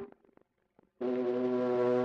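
Cartoon orchestral score: a short note cuts off, and about a second in a low brass note comes in and is held steady.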